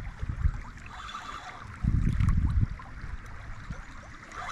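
River water running steadily, with two stretches of low, muffled rumble, one at the start and a louder one about two seconds in.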